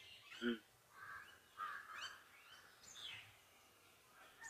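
Faint birdsong: scattered short chirps and quick whistled notes, with one brief, louder low-pitched sound about half a second in.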